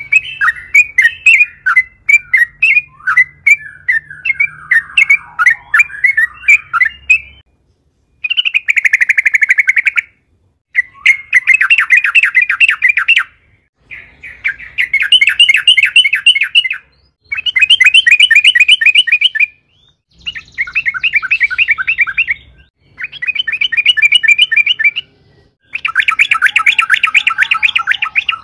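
Yellow-vented bulbul (trucukan) singing. First come scattered chirps, then a string of loud, fast rolling phrases, each a rapid run of repeated notes lasting two to three seconds, with short pauses between them.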